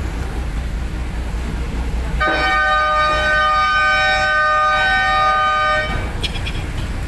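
A horn gives one steady blast of about three and a half seconds, starting about two seconds in, over the low, steady rumble of a boat engine.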